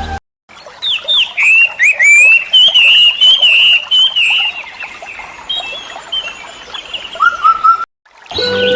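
Birds chirping and warbling in quick, high calls. The sound starts after a brief silence and cuts off shortly before the end.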